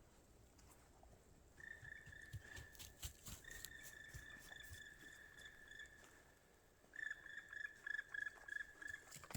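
Crunching footsteps in snow, with a thin, high, steady whine held for a few seconds from about a second and a half in. The whine comes back pulsing near the end, alongside the loudest crunches.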